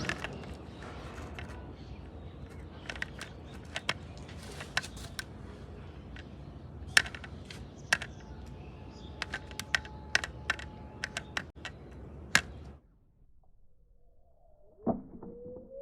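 Scattered sharp clicks and knocks of small hard objects over a steady low rumble. The rumble cuts off suddenly about 13 seconds in, and a knock and a short rising tone follow near the end.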